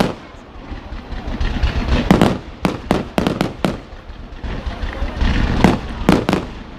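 Fireworks going off in a rapid series of sharp bangs, one cluster about two seconds in and another near the end, with a low rumble between them.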